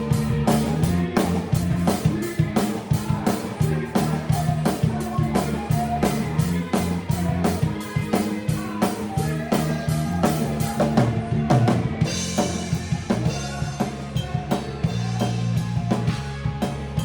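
Band music driven by a drum kit: a steady, busy beat of snare, bass drum and cymbal hits over sustained guitar or bass tones, with a cymbal crash ringing out about twelve seconds in.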